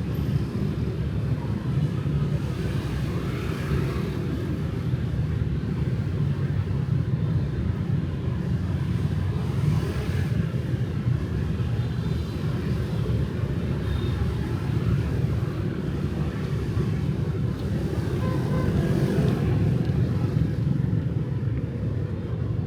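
Steady road-traffic rumble of motorbikes and cars on a city street, running evenly with no single loud event.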